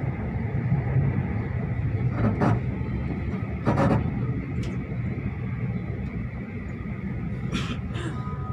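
Moving V/Line passenger train heard from inside the carriage: a steady low rumble of wheels on track, with two louder bursts of wheel-on-rail clatter about two and a half and four seconds in.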